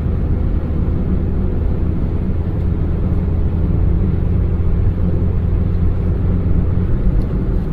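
Steady low drone of a Maruti Suzuki Baleno being driven, heard from inside the cabin: its engine and road noise running evenly, with no sharp revving or braking.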